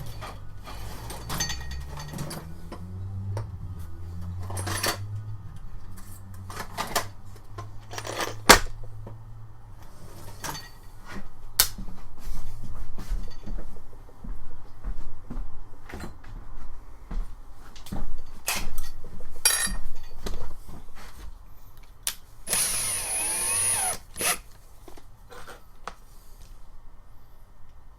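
Hand tools clicking and knocking on metal while working at a broken-off screw, with a short run of an electric drill, a high whine, about 22 seconds in.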